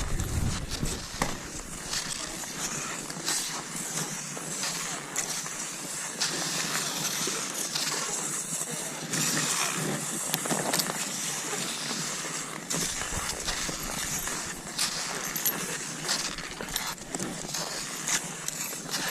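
Cross-country skis sliding over snow: a steady crunching hiss with frequent short, sharp crunches.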